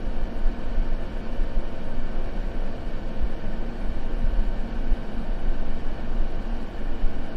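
Continuous white-noise sleep ambience: a steady, even hiss heavy in the low end, with little treble.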